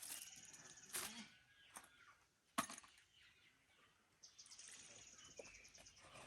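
Near-quiet outdoor background with a faint, high, rapid chirping, and two sharp knocks, one about a second in and a louder one near the middle.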